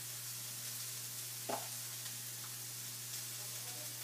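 Sautéed vegetables and shredded chicken sizzling in hot olive oil in a skillet, with a steady hiss as the chicken is spooned in. A steady low hum runs underneath.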